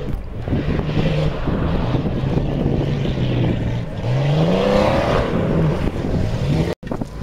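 Jeep Cherokee off-road truck's engine running under hard throttle as it drives through a shallow pond and up a gravel bank, the revs rising about four seconds in. The sound drops out briefly near the end.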